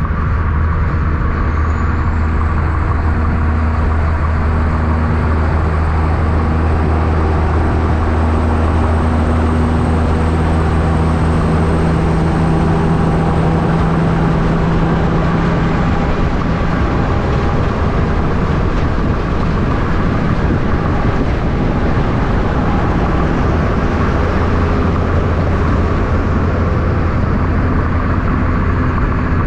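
Road traffic with trucks going by: a steady, loud low engine drone with engine tones that shift in pitch as vehicles pass.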